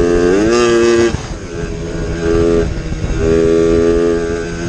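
Motorcycle engine running hard at speed, its pitch rising about half a second in. It eases off for about a second, then pulls hard again, over a heavy rush of wind noise.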